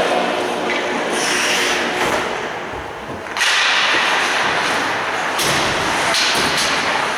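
Ice hockey play on a rink: skates scraping and hissing on the ice, with sharp cracks and thuds of sticks and puck, two of them about 5 and 6 seconds in. There is a sudden rise in noise a little after 3 seconds.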